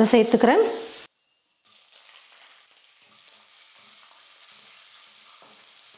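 Oil sizzling faintly in a kadai as green chillies fry with cashews, urad and chana dal and garlic, stirred with a wooden spatula. The even hiss starts after a brief silence about a second and a half in.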